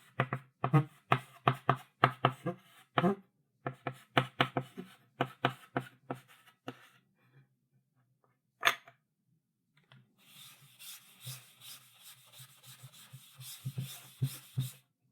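Chalk writing on a blackboard: a quick run of short tapping, scraping strokes, a lone sharp tap, then a continuous scratchy rub of chalk across the board near the end.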